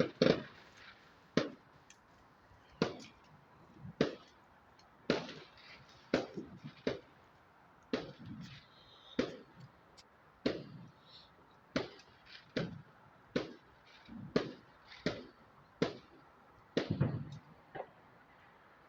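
Fireworks going off: a long, irregular run of sharp bangs, about one or two a second, each dying away quickly.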